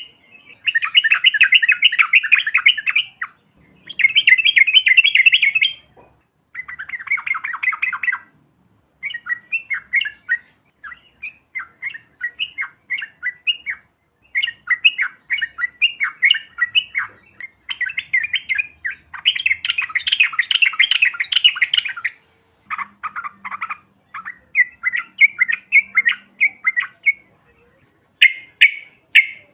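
Yellow-vented bulbul (trucukan) song: rapid, dense chattering phrases a few seconds long, alternating with strings of short quick notes.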